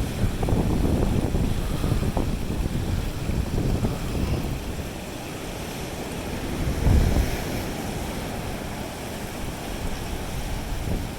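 Surf washing onto a beach, with wind buffeting the microphone in a low, uneven rumble; a stronger surge about seven seconds in.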